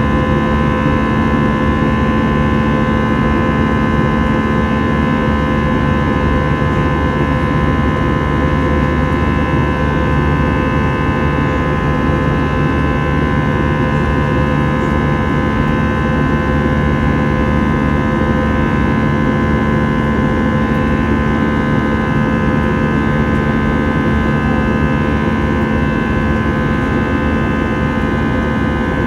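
Steady jet-engine drone inside an Airbus A321 cabin, with several steady tones over a constant rumble and no change in pitch or level.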